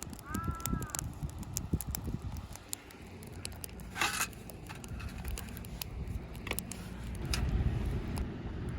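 Campfire crackling with scattered small pops and one louder, hissing pop about four seconds in. A short high call is heard at the start, and a low rumble rises near the end.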